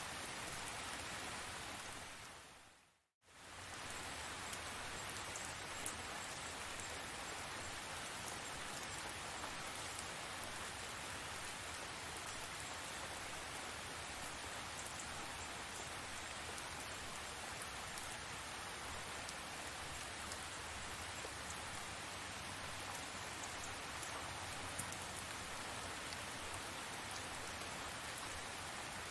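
Steady rain falling, an even hiss with faint scattered drop ticks. A little under three seconds in it fades briefly to silence and comes back within about a second.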